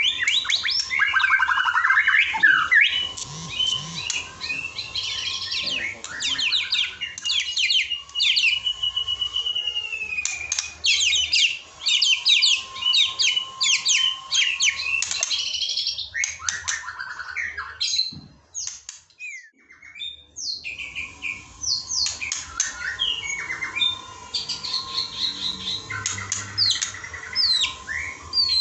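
Songbird singing fast runs of sharp chirps and rattling trills in canary- and sogon-style fill-in phrases, with a long wavering whistled note about a third of the way in and a short break past the middle. A faint steady tone runs underneath.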